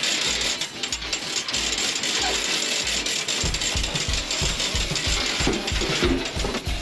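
Fast, continuous ratchet clicking from a tool being worked on the tire job, with a steady low thumping beat setting in about halfway through.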